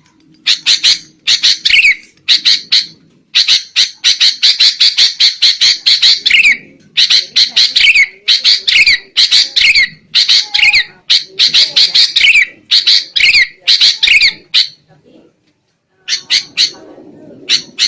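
Sooty-headed bulbul (kutilang) giving agitated, noisy chattering calls: fast runs of harsh notes, many ending in a quick downward slur, with a short break near the end. These are the rowdy 'ribut' calls that trappers play to lure wild bulbuls.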